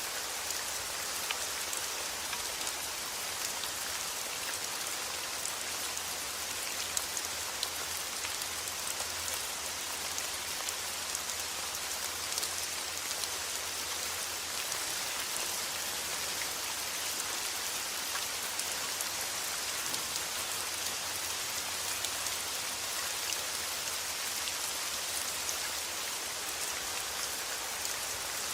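Steady rain falling, an even hiss dotted with many small ticks of individual drops.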